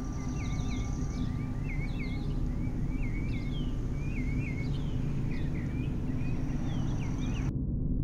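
Birds chirping in a run of short rising-and-falling notes over a steady low rumble. The birdsong cuts off suddenly near the end, leaving only the low drone.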